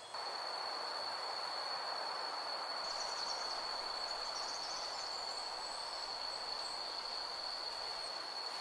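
Insects droning in one steady high whine over a soft background hiss, with a few faint high chirps about three seconds in.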